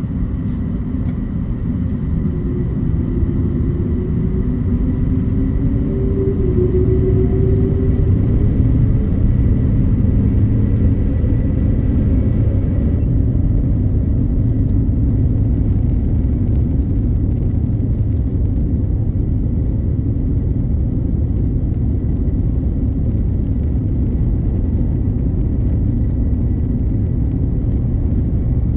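Airbus A350-900's Rolls-Royce Trent XWB engines at takeoff power, heard from inside the cabin: a loud, low rumble that builds over the first several seconds, with a tone gliding upward, then holds steady.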